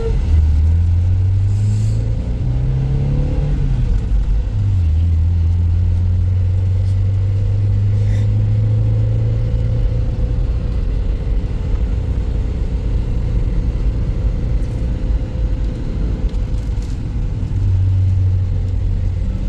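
Car engine running as the vehicle is driven, a steady low hum that climbs in pitch briefly a few seconds in, then settles back and holds steady.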